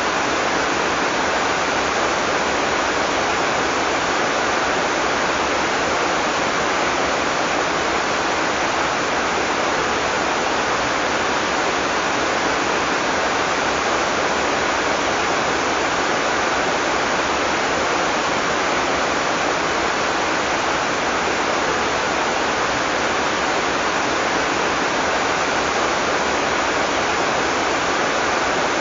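Heavy rain falling steadily in an even, unbroken hiss, with no thunder.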